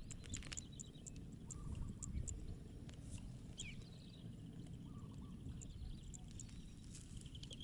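Faint field sound of birds calling, scattered short high chirps with a few brief gliding notes, over a low rumble of wind on the microphone.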